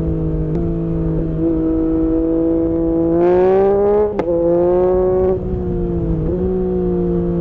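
Yamaha MT-09's three-cylinder engine running under load at high speed. The engine pitch climbs for about a second, midway through the clip, then drops suddenly with a short click as the rider shifts up a gear, and the engine settles back to a steady note.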